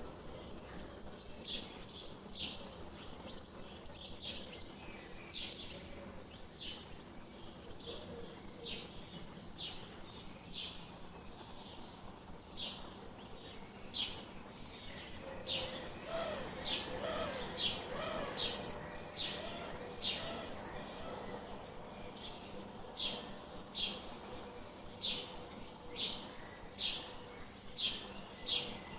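Birds chirping: short, high chirps repeated about once or twice a second, with a few lower, wavering notes partway through.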